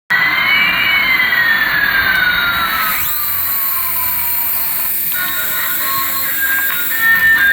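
Jet engine sound: a loud rushing noise with a whine that falls steadily in pitch over about five seconds, and a few short steady tones near the end.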